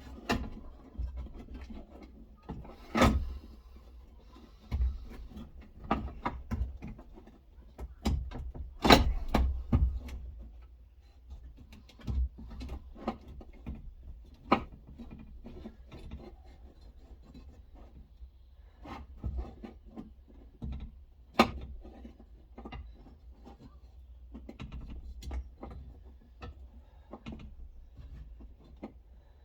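Irregular knocks, clicks and scraping of a window regulator and motor assembly being handled and worked back into a car door's inner panel, with a few sharper knocks among softer rubbing.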